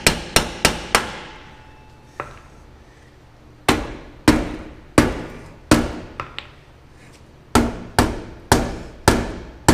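Hammer blows on a wedged metal exhaust pipe joint, each strike sharp with a brief ring. A quick run of about four strikes at the start, a single one about two seconds in, then two steadier runs of about five blows each, roughly two a second.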